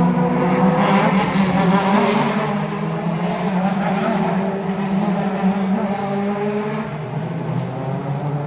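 Supercars V8 race car engines running, a loud steady engine drone whose pitch drifts slowly, with a burst of added hiss about a second in.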